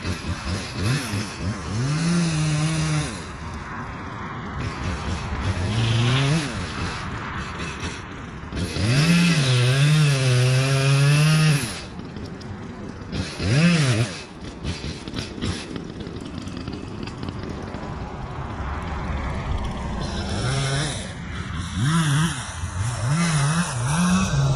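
Echo two-stroke chainsaw revved in several bursts, its pitch climbing and falling and dropping back to a lower running speed between them. The longest burst starts about nine seconds in and lasts nearly three seconds.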